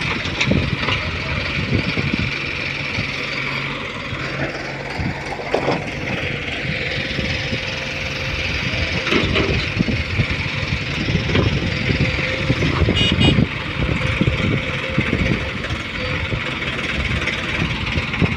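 Heavy diesel engine running steadily, with scattered knocks and clanks.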